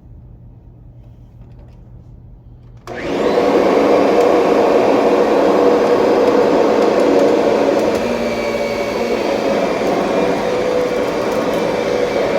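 Kirby Sentria upright vacuum cleaner switched on about three seconds in, its motor coming up to speed within a second and then running steadily with a loud whine, dipping slightly in level about eight seconds in.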